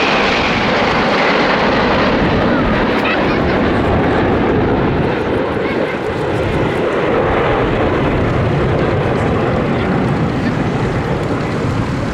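A formation of BAE Hawk T1 jets flying past, a loud steady jet roar with a whine that falls in pitch near the start as they go by.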